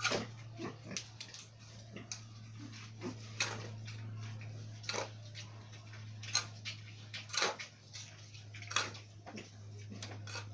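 Shovel turning a sand-and-cement mortar mix on a hard floor: short sharp scrapes and knocks at irregular intervals, about one a second, over a steady low hum.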